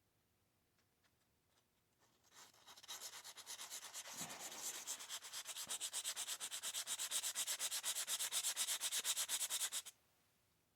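Hand sanding of hardened JB steel putty on a slot car body with a sanding sponge: quick back-and-forth rubbing strokes, about five a second, starting about two seconds in and stopping abruptly shortly before the end.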